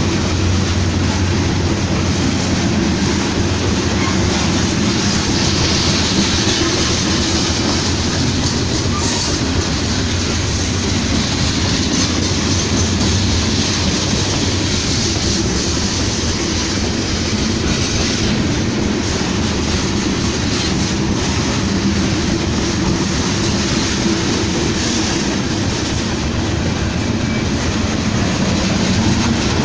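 A train's cars rolling past steadily on the rails, a continuous loud rumble with no horn.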